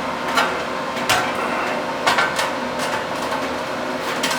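Steady whoosh of a shop fan blowing, with a handful of sharp metallic taps and clicks from the welding work.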